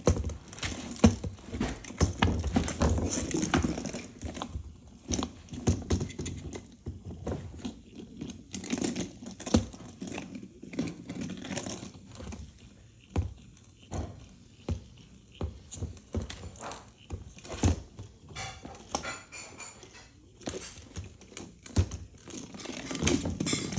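A cat playing with a toy: irregular crinkling and rustling with light knocks and taps, coming in uneven spurts.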